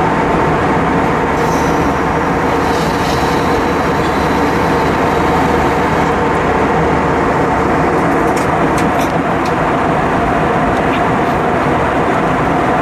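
Steady cabin noise of an Airbus A320-232 airliner in flight: a constant rush of air over the fuselage with a steady hum from its engines. A few faint clicks sound about eight to nine seconds in.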